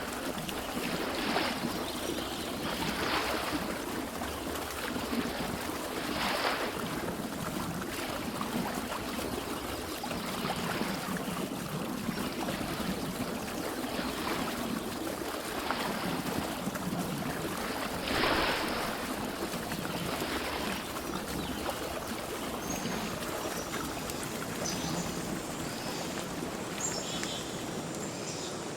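Running water: a steady rush with louder surges or splashes every few seconds. Faint high bird chirps come in near the end.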